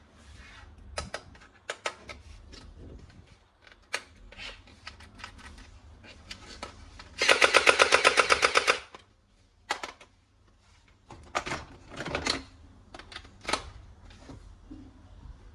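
Toy gun firing a rapid burst of about ten shots a second for about a second and a half, midway through. Scattered clicks and knocks of plastic toy parts being handled come before and after it.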